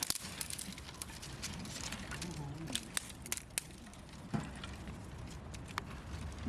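Wood fire crackling, with irregular sharp pops and clicks over a low steady rumble. A faint voice is heard briefly about two seconds in.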